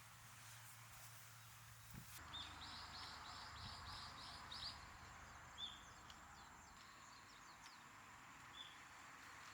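Faint wild birdsong: a quick run of about eight high chirps, then a couple of single calls, over a steady hiss of flowing water.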